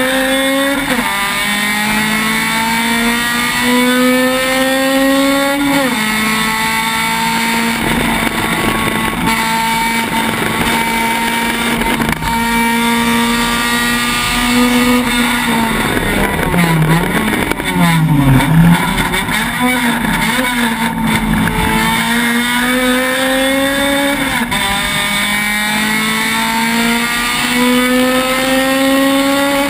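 Honda Civic race car's four-cylinder engine at full racing revs, heard from inside the cabin. The pitch climbs and drops sharply with each upshift, holds steady on a long flat-out stretch, then dips and rises sharply a couple of times around the middle as the driver brakes and downshifts before accelerating through the gears again.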